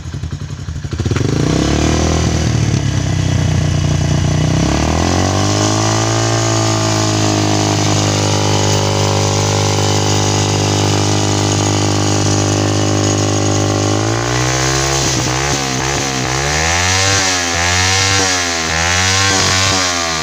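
Honda Win motorcycle engine running through an ARQ aftermarket muffler, revved up about a second in and held at steady high revs. Near the end it is blipped repeatedly, the revs rising and falling about once a second.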